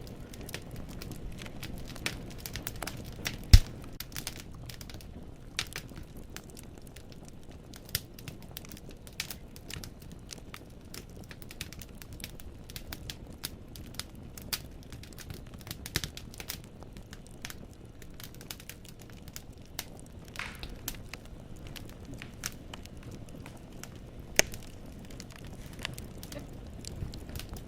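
Firewood burning in a fireplace, crackling with a steady scatter of small snaps over a low rumble of flame. One sharp, much louder pop about three and a half seconds in, and another loud pop near the end.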